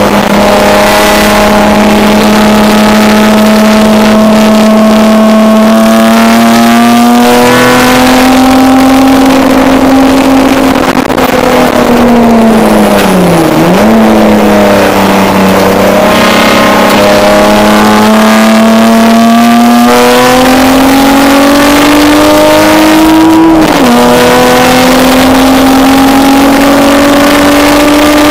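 Race car's engine heard loud from inside the cockpit, under load on track: the note climbs slowly, dips sharply and recovers about halfway through, then pulls up again and drops suddenly with a gearshift near the end. Heavy wind and road noise lie under it.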